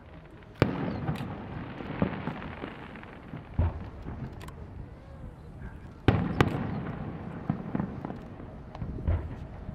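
Aerial firework shells bursting overhead, with sharp bangs about half a second in and again about six seconds in, the two loudest. Smaller reports and a crackling, echoing rumble fill the time between them.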